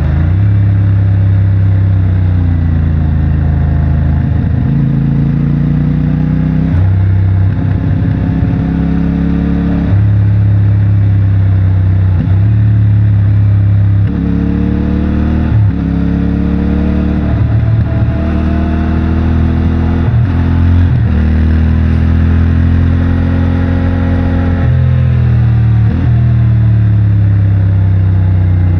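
CFMOTO 450MT's parallel-twin engine through its stock exhaust, ridden and working through the gears. The revs climb and drop back again and again with each gear change.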